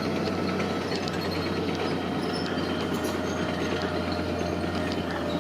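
Heavy earth-moving machine running steadily, a constant low diesel drone with scattered metallic squeaks and clanks over it.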